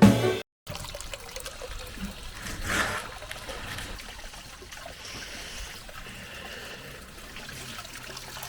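Water trickling steadily, swelling briefly about two and a half seconds in.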